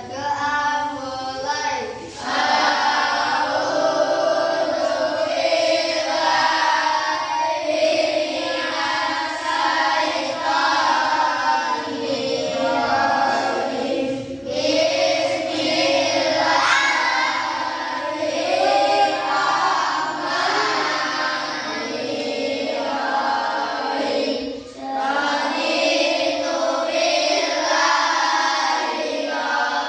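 A group of children singing together in unison, phrase after phrase, with a short break between phrases about twenty-five seconds in.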